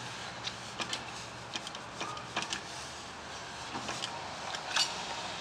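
Claw machine being played: irregular sharp clicks and ticks from its controls and claw mechanism over a steady hum, the loudest click near the end.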